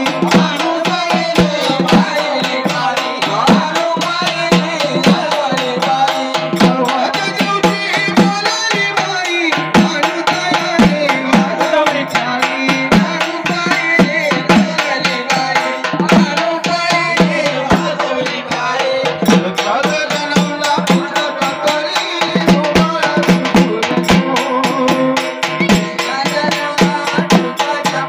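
Indian folk music with hand-drum playing, quick steady percussion strokes and a continuous melody, for a Marathi palna (cradle song).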